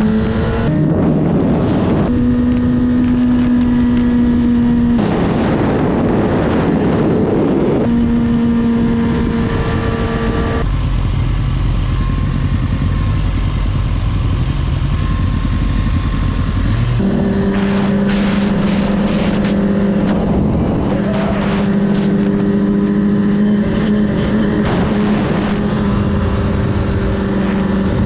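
Motorcycle engine heard while riding, with wind noise. It holds steady at cruising revs, broken by stretches where it revs up through the gears.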